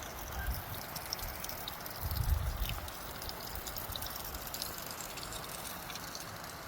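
Steady heavy cyclone rain falling, with the patter of many drops, and a low rumble of wind buffeting the microphone, loudest about two seconds in.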